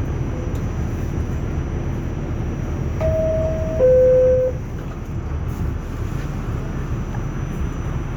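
Two-tone door-closing chime of an R46 subway car, about three seconds in: a higher tone, then a louder lower one, signalling that the doors are closing. Under it runs the steady rumble of the train.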